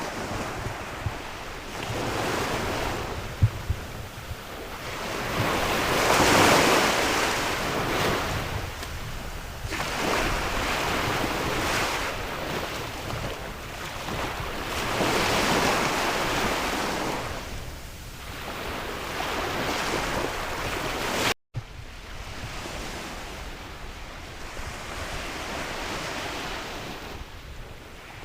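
Sea waves surging and breaking in repeated swells every few seconds, with sea wind blowing across the microphone. The sound cuts out for an instant about three-quarters of the way through, then the surf carries on a little quieter.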